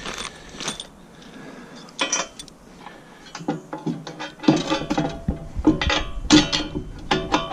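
Steel attachment parts clinking and knocking together as a hitch extender is handled and fitted into place: a run of short metallic clanks with a ringing tail, a few at first and coming thick and fast in the second half.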